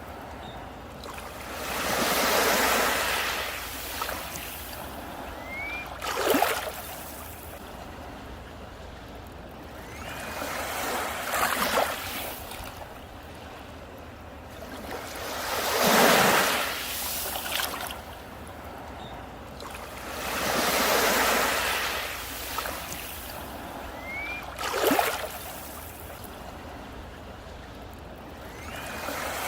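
Sea waves breaking on a beach, each surge of surf swelling and fading about every five seconds. Two shorter, sharper crashes come through, a few seconds and about twenty-five seconds in.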